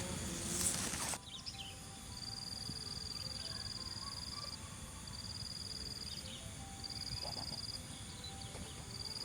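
A high-pitched trill held at one steady pitch, repeated about five times after a burst of hiss that cuts off abruptly about a second in. It is the call of a small wild animal, over a low outdoor rumble.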